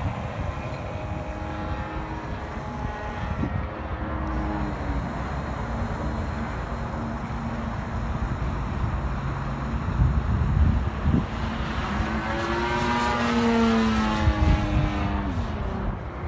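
DLE-55cc single-cylinder two-stroke gasoline engine on an RC airplane running steadily with its propeller, over a low rumble; about three quarters of the way through, its pitch rises and then falls away.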